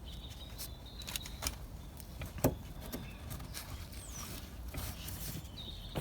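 Scattered metallic clicks and knocks of pliers working a spring hose clamp on a radiator hose, with one sharper knock about halfway through.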